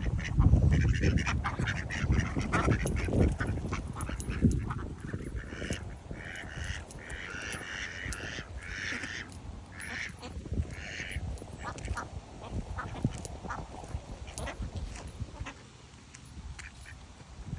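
Ducks quacking as they feed on kibble, with a run of repeated calls in the middle and many short clicks and taps throughout. A low rumble is strongest in the first few seconds.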